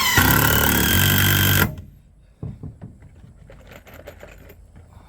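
Power drill running for about two seconds, its motor whine wavering at first as the trigger is worked, then stopping; a few light knocks follow.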